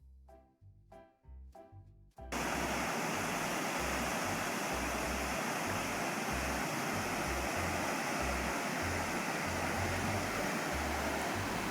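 A few plucked guitar notes, then a little over two seconds in a steady rush of river water cuts in, a river running high and fast after a typhoon, with uneven low rumbling underneath.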